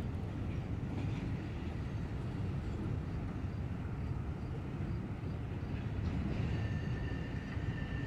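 Freight cars being shoved slowly through a rail yard by an EMD SD40-2 diesel locomotive: a steady low rumble of engine and rolling cars. A high steady squeal joins in about six and a half seconds in.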